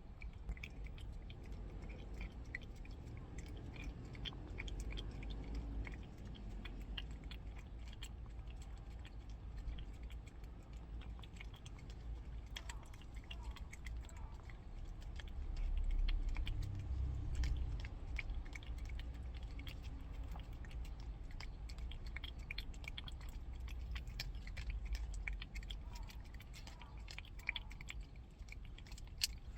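A cat eating, chewing and smacking its food with a steady run of small, quick clicks. A low rumble swells briefly about halfway through.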